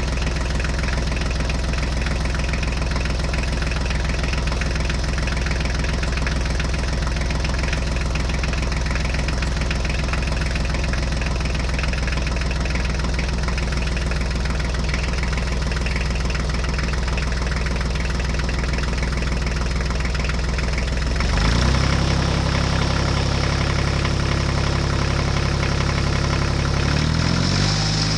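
A vehicle engine idling with a steady low hum. It speeds up and gets slightly louder about 21 seconds in, then shifts in pitch again near the end.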